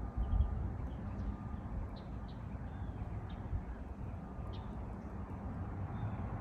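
Birds calling in short, scattered high chirps over a steady low rumble.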